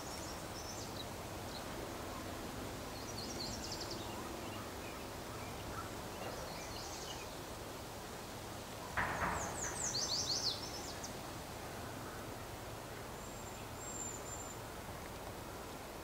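Wild birds calling: several short series of thin, high notes, the longest a falling cascade about ten seconds in, over a steady low background rumble. A brief louder rush of noise comes about nine seconds in.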